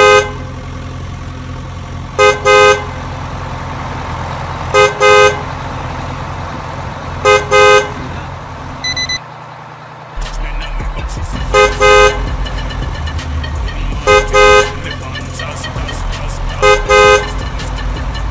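Truck horn honking twice in quick succession, repeated about every two and a half seconds, over a steady low engine rumble. A short high beep sounds about nine seconds in, and the engine rumble is louder after it.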